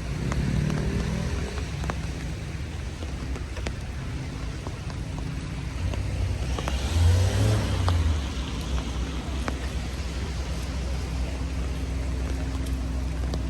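Rain falling on a city street with a steady low rumble of traffic, and a vehicle passing on the wet road about seven seconds in, swelling and fading.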